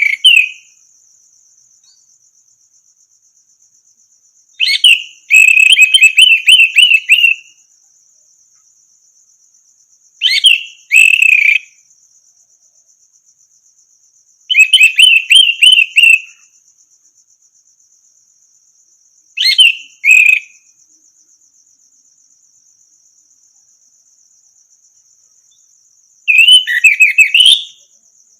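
Orange-headed thrush (anis merah) singing short whistled, warbling phrases, about five of them a few seconds apart, over a steady high insect trill like a cricket.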